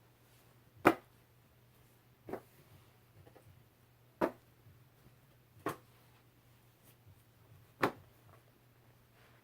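Five sharp, irregularly spaced taps or knocks, the first about a second in and the loudest, over a faint steady low hum.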